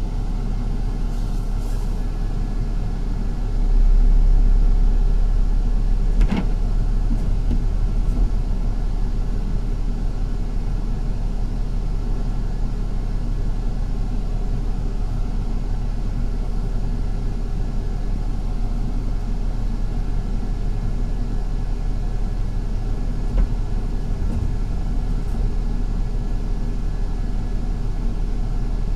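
Interior of a moving city bus: a steady low rumble of engine and road noise. It swells louder about four seconds in and eases off a few seconds later, with a single sharp knock in between.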